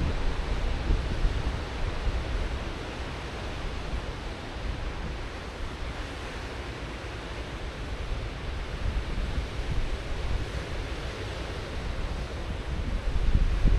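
Ocean waves breaking and washing on the shore: a steady hiss with a low rumble that swells and eases, growing again near the end. Wind buffets the microphone.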